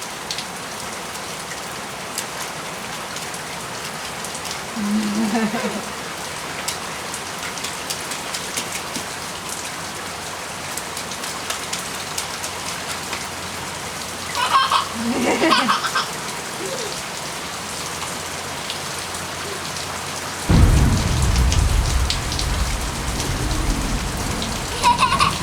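Steady rain falling on the ground and puddles, an even hiss of drops. About twenty seconds in, a louder low rumble sets in suddenly and keeps on.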